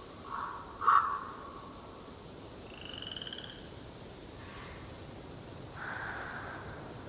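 Forest wildlife calls over a faint steady background: two short calls near the start, the second the loudest, a brief high trill about three seconds in, and a softer call about six seconds in.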